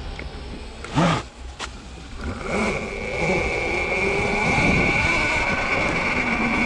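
Sur-Ron electric dirt bike motor whining under throttle: a steady high whine that comes in about two seconds in, gets louder, then holds. A short loud sound about a second in.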